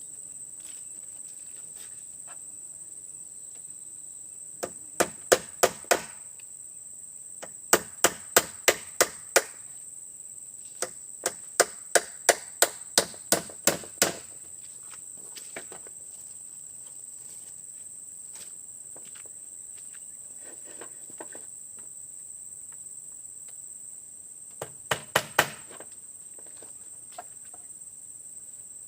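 Repeated chopping strikes on wood in several bursts, about three to four blows a second, the longest run near the middle. A steady high-pitched insect drone, cicadas or crickets, continues underneath.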